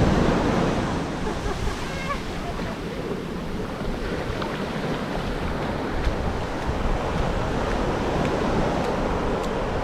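Ocean surf breaking and washing up the beach, swelling and easing, with some wind buffeting the microphone.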